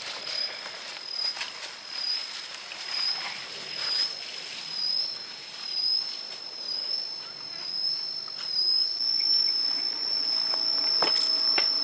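A steady high-pitched insect drone that swells and fades about every second and a half at first, then holds steady. A few sharp knocks come near the end.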